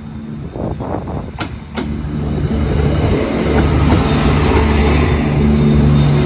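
A train running past at close range. It grows loud about two seconds in, after a couple of sharp clicks, then holds a steady engine drone with rail noise.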